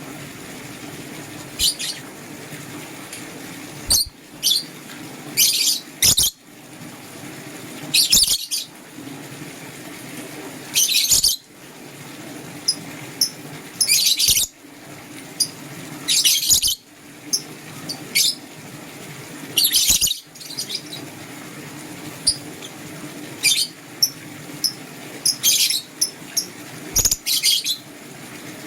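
Pet lovebirds chirping: short, sharp, high-pitched calls in clusters every one to three seconds, over a steady low background hum.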